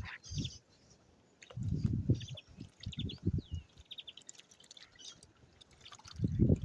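Small birds chirping in short high calls, with one rising-and-falling call about three seconds in. Low muffled bursts come twice in the first half.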